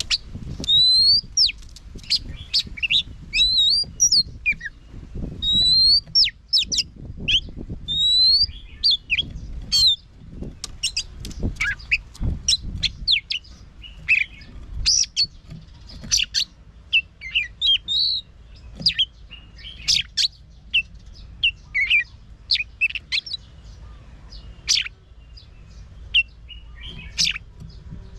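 Oriental magpie-robin singing a long, varied song of clear whistles, rising slurred notes and sharp chirps, some phrases repeated every second or two. A low rumble sits beneath the song in the first half.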